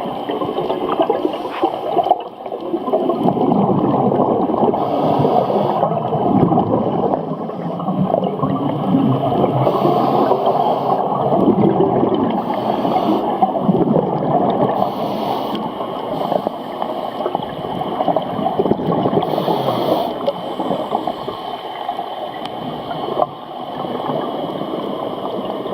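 Underwater sound of a scuba diver's breathing: exhaled bubbles gurgling and rumbling, with a short hiss from the regulator every few seconds.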